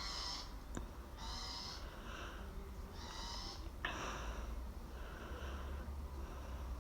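A bird calling over and over: a high-pitched call of about half a second, repeated every second or so, fainter after a sharp knock about four seconds in.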